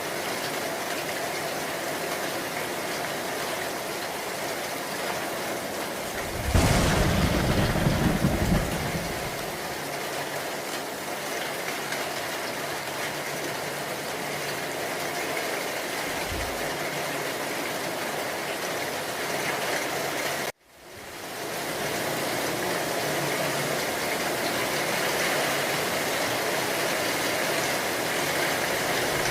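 Steady rain falling, with a loud thunderclap about six and a half seconds in that rumbles for about two seconds, and a short low thump later on. About two-thirds of the way through, the sound cuts out abruptly and fades back in.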